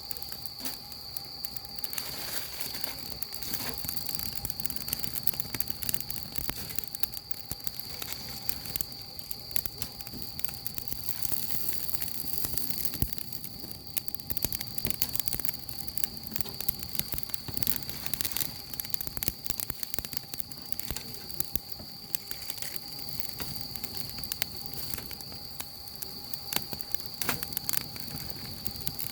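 Wood fire crackling, with frequent irregular sharp pops as the firewood burns. A steady high-pitched insect chirr runs underneath.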